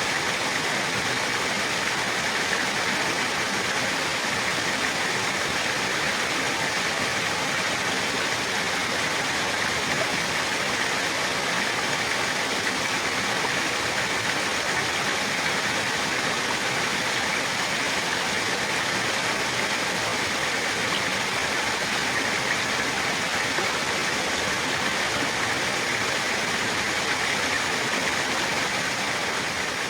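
Running water flowing steadily, an even rushing noise that does not change.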